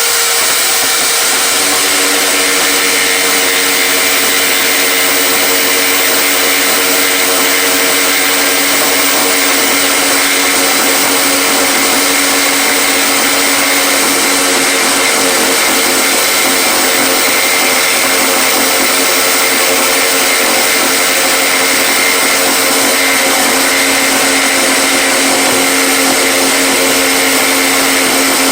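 An electric motor running steadily and loudly for the whole stretch, a continuous whir with a held whine; a second, lower tone joins about two seconds in as the load or speed shifts.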